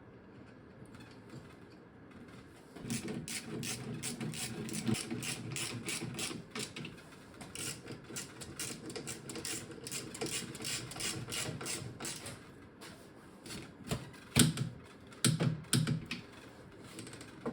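Hand ratchet wrench clicking rapidly in runs as bolts on the subframe assembly are turned, with a few louder metallic knocks near the end.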